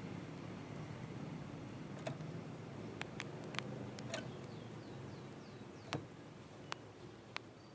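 Scattered sharp clicks and taps, with a short run of about five quick, falling, high chirps from a small songbird about four seconds in, over a low steady hum.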